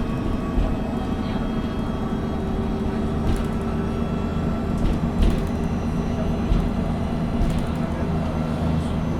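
Inside a MAN NG 313 CNG articulated bus while it is running: a steady drone from its natural-gas engine, with a few short knocks and rattles from the body and fittings.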